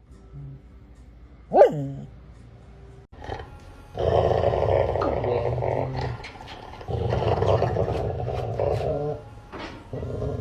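A dog growling in two long rough bouts, the first about four seconds in and the second about seven seconds in. Earlier there is one short, loud call that falls in pitch.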